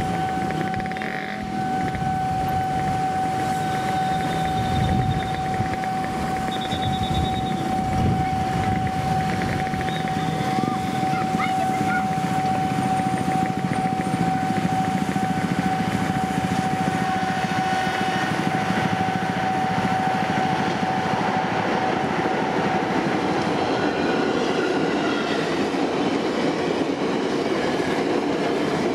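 A ten-car KRL commuter electric train, an ex-Tokyo Metro 6000 series set, approaches and runs past on the track, its wheel and motor rumble building over the last third. Under it a steady high level-crossing warning tone sounds without a break and fades out near the end.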